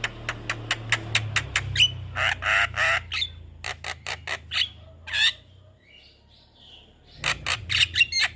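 Javan myna singing: quick runs of sharp, clicking notes mixed with harsh, buzzy squawks, with a quieter gap about two-thirds of the way through before another fast run of clicks.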